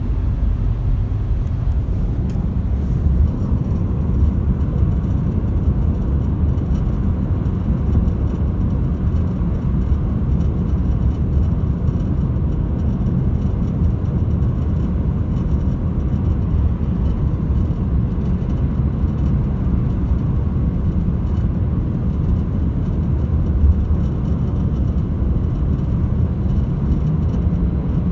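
Steady low road and wind rumble from a 2018 Lexus RX 450h driven at highway speed, the condition in which the owner hears a rattle above 70 mph.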